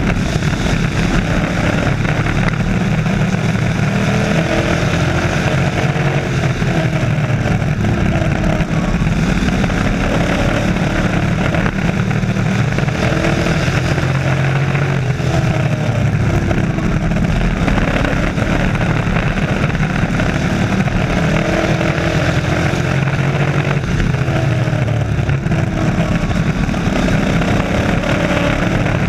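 Race truck engines running on a short oval track, several at once, with pitch that repeatedly rises and falls as they accelerate and back off.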